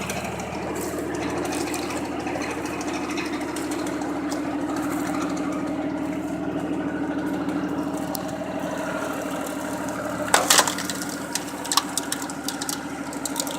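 Homemade firewood splitter driven by a tractor's rear power take-off running with a steady hum, then a log cracking and splitting loudly about ten seconds in, followed by a few smaller cracks of wood.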